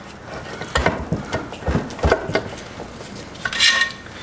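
Metal parts of a Subaru six-speed transmission and hand tools knocking and clinking during teardown: a run of short knocks in the first half, then a ringing metal clink near the end.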